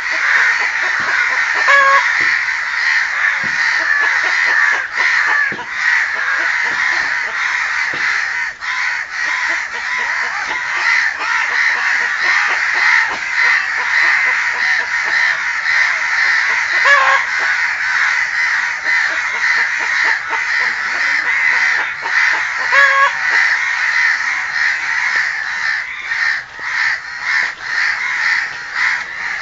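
Crows cawing, many harsh calls overlapping almost without a break, with a few louder single calls standing out.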